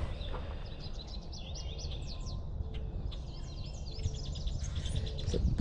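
Marsh songbirds chirping: a rapid run of short, high, falling chirps that keeps repeating, over a steady low rumble.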